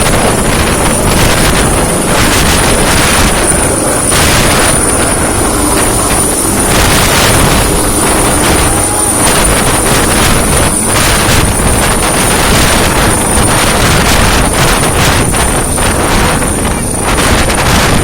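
Helicopter running close by: loud rotor and engine noise with a steady high turbine whine, while rotor downwash buffets the microphone in irregular gusts.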